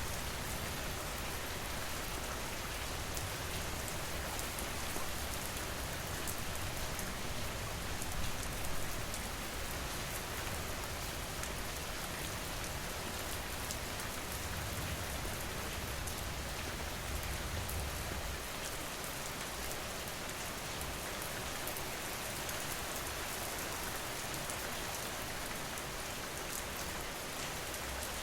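Steady rain falling, a dense hiss with many individual drops ticking through it. A low rumble sits underneath and eases off about two-thirds of the way in.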